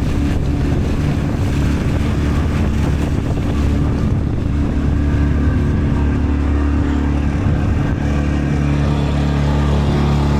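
Outboard motor of a small rental fishing boat running steadily under way, with a steady low engine hum.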